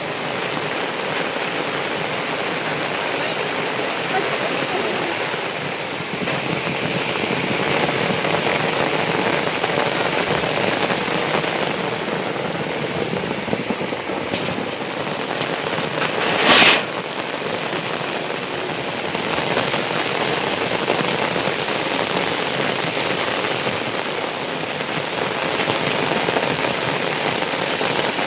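Steady heavy rain falling. About two-thirds of the way through comes one brief, loud, sharp sound, louder than anything else.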